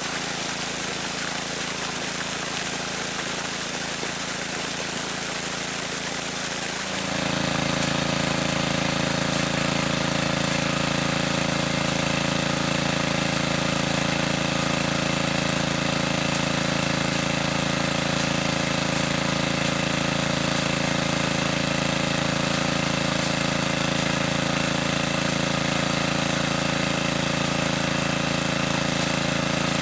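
Running water, then about seven seconds in a small engine cuts in abruptly and runs steadily at an even idle.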